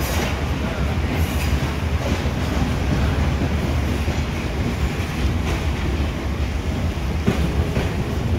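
Passenger train running along the track, heard from aboard: a steady rumble of wheels on rails with a few scattered sharp clacks.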